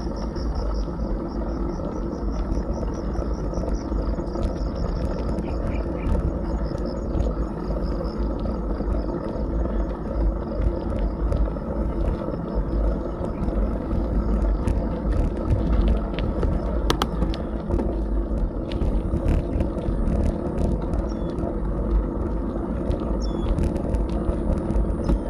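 Wind rushing over an action camera's microphone and tyre rumble during a bicycle ride. Insects trill in a pulsing high buzz through the first half.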